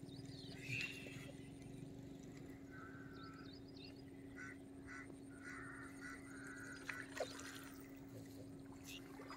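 Faint birds calling at the waterside: a run of short, repeated calls through the middle, over a steady low hum.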